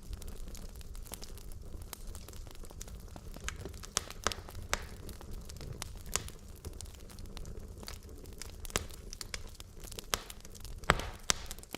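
Wood logs burning in a fireplace: a steady low rumble of flame with irregular sharp crackles and pops, the loudest pop about eleven seconds in.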